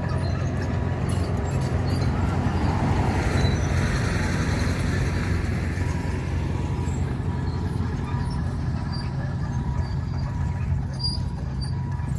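Komatsu D61 bulldozer's diesel engine running steadily under load as it breaks up a bituminous road surface. About two seconds in there is a swell of grinding noise, which fades by about six seconds.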